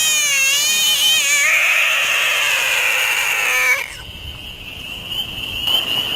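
An animal's long drawn-out call, wavering in pitch and then held steady, cutting off sharply a little under four seconds in. A fainter steady high tone follows.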